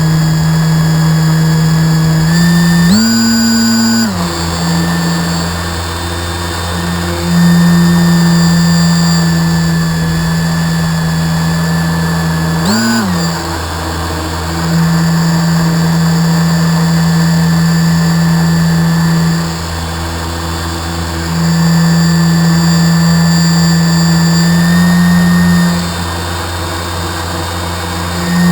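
Radio-controlled boat motor running at a steady pitch in long stretches of several seconds, easing off between them. It revs up sharply twice, briefly: about three seconds in and again near the middle.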